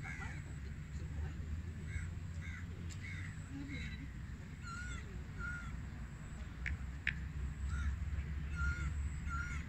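Birds calling repeatedly from the trees: short chirping calls a second or so apart, some with a dipping, curved pitch, over a steady low rumble.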